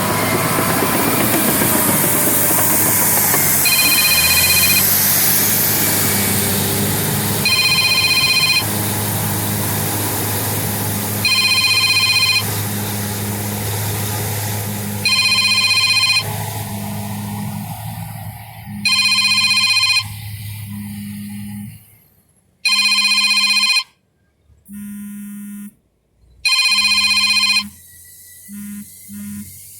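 Cat D8N dozer's diesel engine running under load, with an electronic ringing tone of about a second repeating every four seconds or so over it. The engine noise drops away about two-thirds of the way through, leaving the ringing and short breaks.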